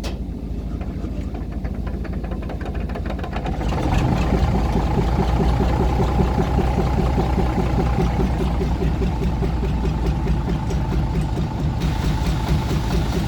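A locomotive's engine being started with its compression release: it turns over with an even beat, catches about four seconds in, and then runs steadily and louder.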